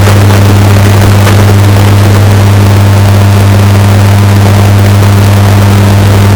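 Washing machine running, bass-boosted and distorted to near full loudness: a steady, overpowering low hum with a harsh noisy hiss over it.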